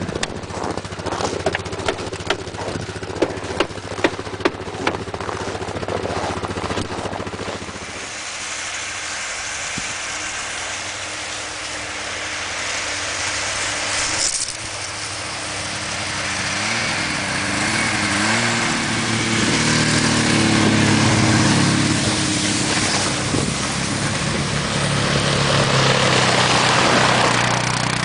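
Series of sharp knocks in the first several seconds, then a small gasoline engine running, its pitch shifting and rising in the later part and getting louder.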